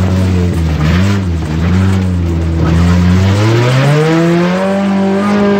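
Off-road 4x4's engine heard from inside the cab, the revs dipping briefly about a second in, then climbing steadily through the second half as it drives up the track.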